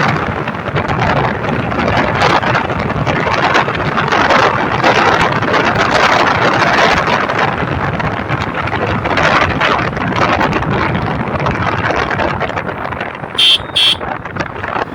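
Motorcycle being ridden hard at speed, heavy wind noise on the microphone over the engine. Two short horn beeps near the end.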